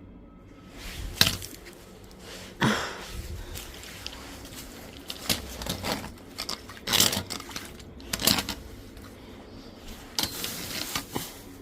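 Irregular knocks and scrapes of handling and working on the ground, a few sharp clacks spread through, with a longer scraping, rustling stretch near the end.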